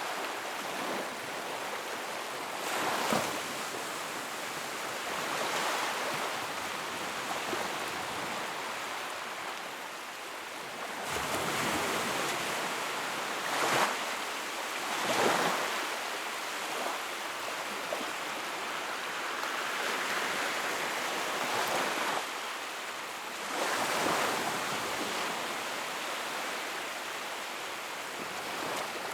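Wood fire in a fireplace burning with a steady hiss and crackle, and a handful of louder pops scattered through.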